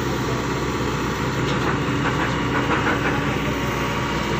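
Heavy diesel engine running steadily at a low, even pitch, with a few faint clanks in the middle.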